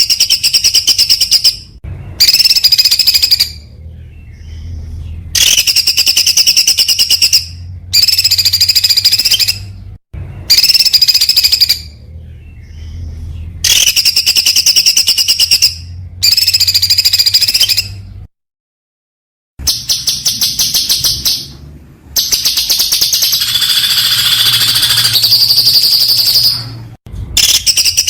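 Songbird song in repeated bursts of very rapid, high-pitched trilled notes, each burst lasting one to two seconds with short pauses between: the fast 'tembakan' (rapid-fire) phrases used as training song for contest birds. The sound drops out completely for about a second two-thirds of the way through, at an edit.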